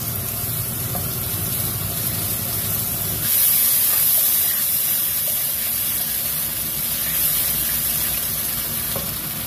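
Ground spice paste sizzling in hot oil in a wok pan as it is sautéed and stirred. The sizzle grows louder about three seconds in.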